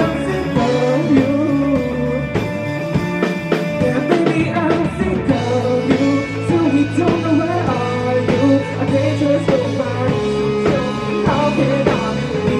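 Rock band playing live: guitars, bass and drums, with a lead line bending up and down in pitch and no sung words.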